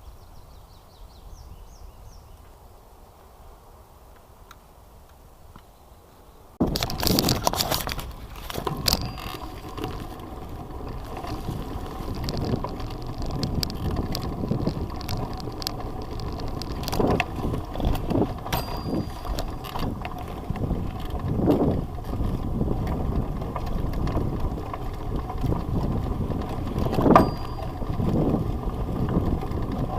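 Bicycle being ridden: a steady rattle with frequent knocks and clicks that starts suddenly about a fifth of the way in, after a quiet stretch.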